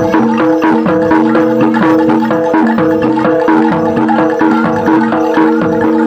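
Gamelan-style ensemble music: metal mallet instruments repeat a short melody of held notes over quick, steady percussion.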